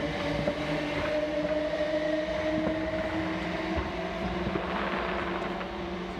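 Distant fireworks popping and crackling faintly over a steady engine-like drone whose pitch sinks slowly.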